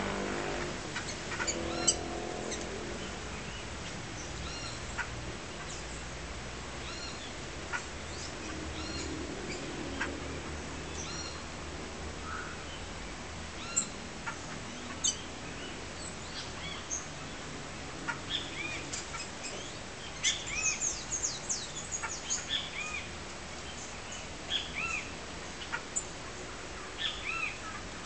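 Small birds chirping with short, high call notes, scattered at first and coming thick and fast for a few seconds about two-thirds of the way in.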